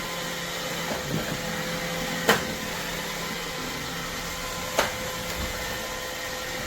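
iRobot Roomba 692 robot vacuum running with a steady hum and whine, broken by two sharp knocks about two and a half seconds apart.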